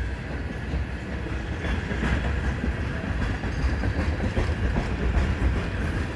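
Freight train cars rolling past close by: a steady low rumble of steel wheels on rail, with an occasional clack from the wheels.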